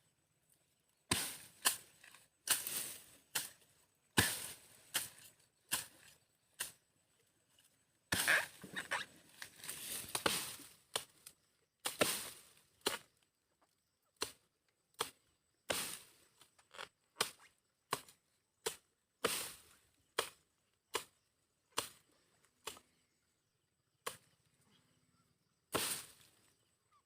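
Repeated chopping blows into the wood of a thorny tree as its branches are cut off one by one. The sharp strokes come irregularly, about one or two a second, with a few short pauses.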